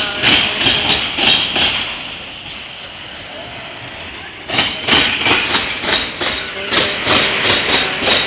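Freight train of autorack cars rolling past close by, the wheels clicking over the rail joints in a quick rhythm of about three clicks a second. The clicking eases off for a couple of seconds and picks up again about halfway through.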